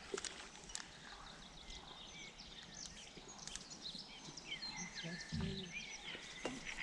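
Small birds chirping and twittering in short, quick calls over faint outdoor background noise, with a brief low thud about five seconds in.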